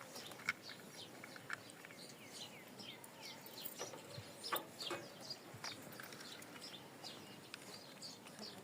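Parrots chirping: many short, high chirps that slide down in pitch, scattered with a few sharp clicks, fairly faint.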